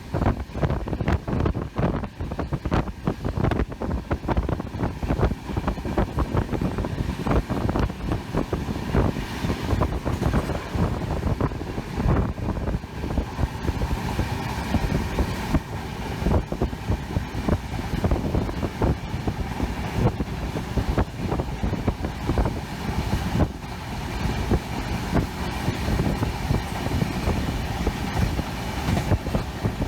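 Moving train running: steady low rumble with dense clattering of wheels over the rails, and some wind noise.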